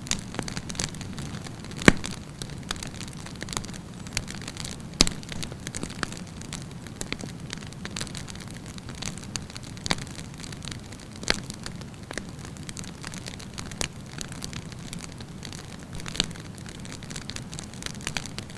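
Wood campfire burning: a steady low rush of flame with continual crackling and frequent sharp pops, the loudest about two seconds in and again about five seconds in.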